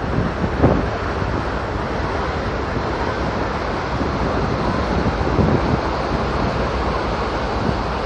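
Wind buffeting the microphone on a moving ferry's open deck, with a few sharper gusts, over a steady rush of water and the ship's low running noise.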